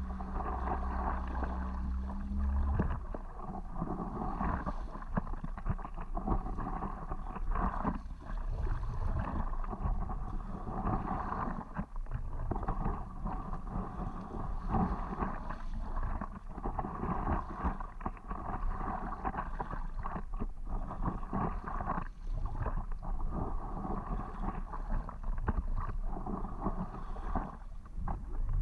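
Wind buffeting the microphone over water moving around a paddleboard, with uneven short gusts and splashes. A low steady hum cuts off suddenly about three seconds in.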